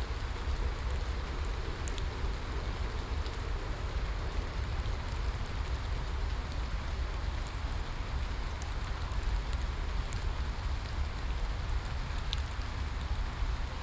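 Steady rain falling: an even hiss with scattered sharp ticks of single drops and a deep, constant low rumble underneath.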